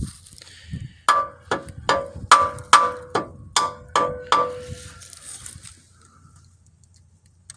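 A steel hammer beating on the tractor's steering drag link: about nine ringing blows, roughly two and a half a second. They begin about a second in and stop a little past halfway, driving the link end into place.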